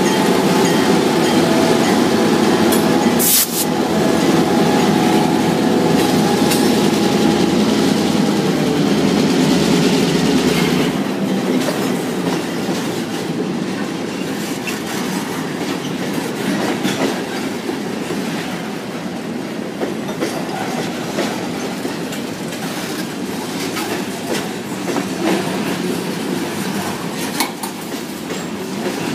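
Two CF7 diesel locomotives pass close by with their engines running. One sharp metallic knock comes about three seconds in. From about eleven seconds in, the engine sound gives way to freight cars rolling by, their wheels clacking over the rail joints.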